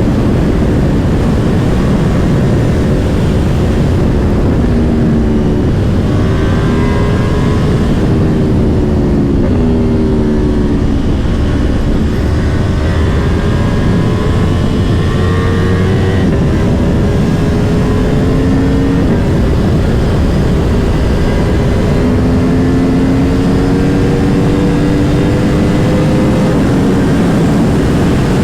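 Heavy wind noise on the camera microphone at speed, over the Aprilia Tuono V4 Factory's V4 engine. The engine note climbs gradually as it pulls through the revs and drops back at each gear change or roll-off, several times over.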